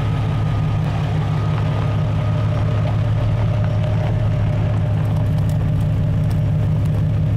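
Lifted Jeep Cherokee's engine running steadily at low speed as the vehicle crawls slowly over rough ground.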